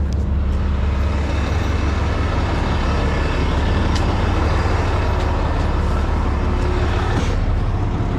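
Heavy tow truck's diesel engine running steadily, a low drone with no change in speed.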